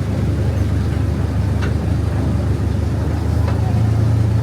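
Theme-park ride train running, heard from aboard: a steady low rumble that grows a little louder near the end.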